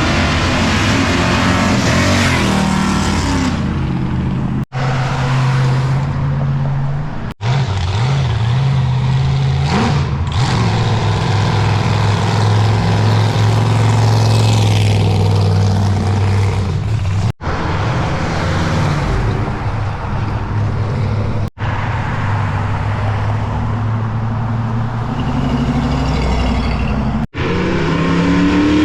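Classic car engines running and revving, in several short clips joined by abrupt cuts. The exhaust notes are steady and low, with a rev rising in pitch near the end.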